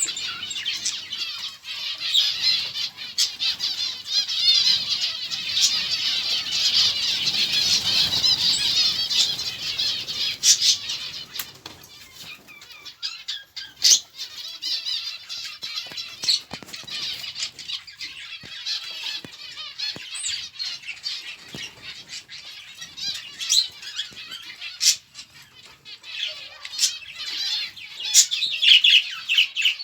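A flock of small cage birds chirping and chattering continuously, with scattered sharp clicks and flutters; the chatter is densest in the first half and thins, with louder separate chirps near the end.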